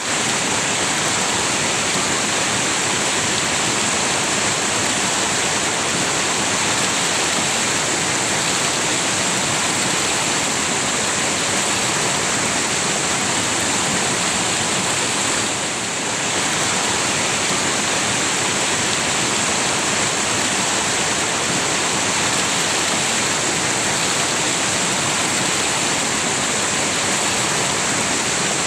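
River water rushing steadily over rocks, an even continuous wash of sound with a brief slight dip in level about halfway through.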